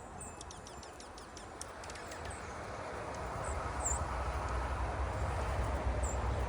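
Small wild birds chirping with short, high calls, some faint clicking among them. A low rumble builds from about two seconds in and grows steadily louder.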